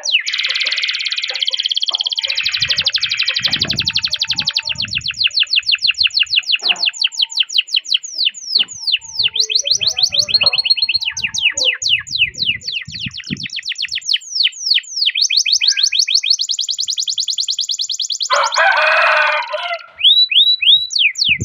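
Domestic canary singing a long, unbroken song: rapid strings of high downward-sweeping chirps, several a second, alternating with fast rolling trills. A harsher, lower roll comes near the end, followed by a brief break.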